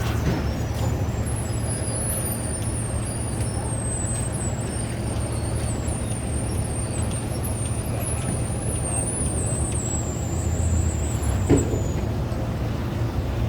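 Steady low engine rumble, with a thin, wavering high-pitched whine over it for most of the time.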